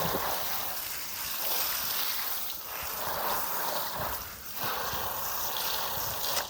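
Water spraying hard from a hose onto a window air conditioner unit, rinsing the cleaner and loosened grime out of it; the rushing swells and eases as the spray moves, and stops right at the end.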